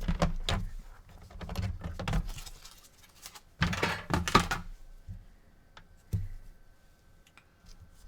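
Handling noise from working on a PS4 console on a bench: scattered clicks and knocks, with a busier clatter about four seconds in, then a few light ticks. A faint steady high tone comes in about five seconds in.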